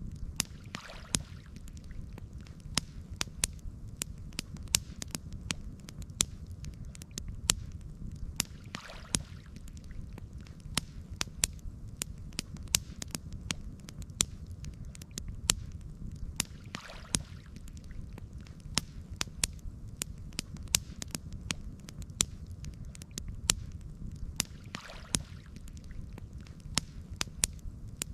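Campfire crackling: sharp pops and snaps several times a second over a steady low rumble, with a soft whoosh recurring about every eight seconds.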